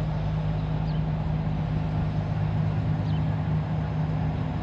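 Steady low mechanical hum, an unchanging engine-like drone over outdoor background noise.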